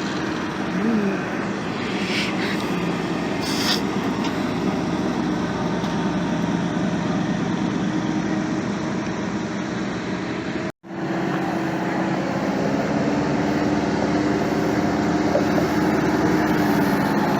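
Truck engines running in a steady, continuous drone. The sound drops out abruptly for a moment about eleven seconds in.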